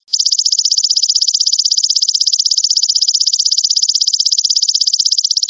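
Belalang emas (golden grasshopper) calling: a loud, high, rapidly pulsed buzzing trill that starts just after the beginning and cuts off abruptly near the end.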